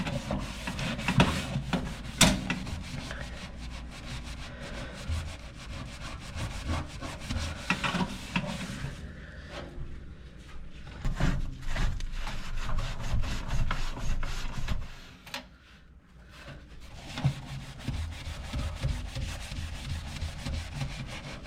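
Hand scrubbing of baked-on grease on a toaster oven with a dish soap and vinegar mixture: a continuous, irregular rasping of strokes, with a brief pause a little after two-thirds of the way through.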